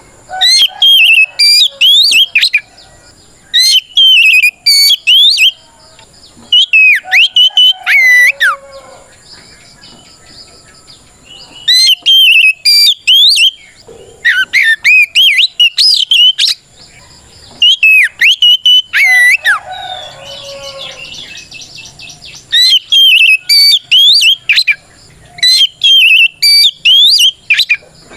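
Oriental magpie-robin singing loud, clear whistled song phrases of quick rising and falling notes: eight bursts of about two seconds each with short pauses between. This is a challenge song calling out a rival.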